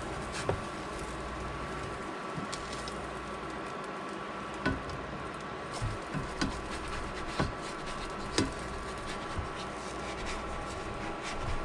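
Scattered light knocks and taps, about seven spread irregularly over a steady background hum.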